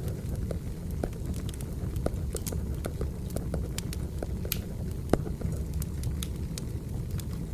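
Wood fire crackling: a steady low rumble of burning logs with irregular pops and snaps, one sharper snap about five seconds in.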